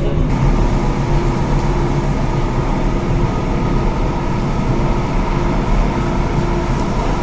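Thessaloniki Metro train running at speed between stations, heard from inside the car: a steady rumble of wheels on rails with a steady hum and whine over it.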